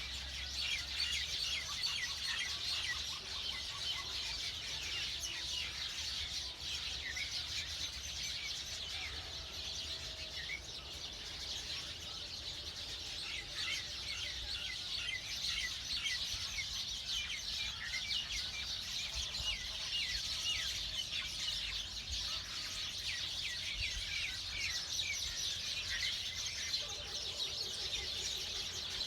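A dense chorus of many small birds chirping and twittering over one another without pause, high-pitched, over a faint steady low rumble.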